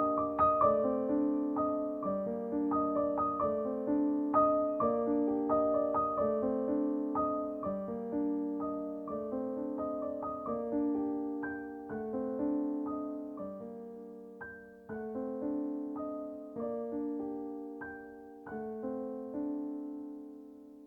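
Background piano music, struck notes ringing out, fading out toward the end.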